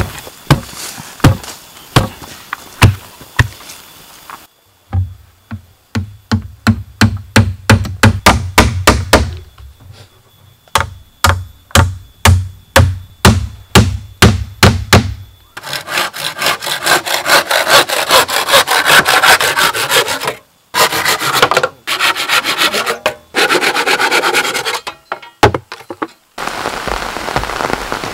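Bamboo being worked with hand tools, mostly rhythmic sawing strokes about two to three a second, in several short stretches that break off abruptly. An even hiss of rain takes over near the end.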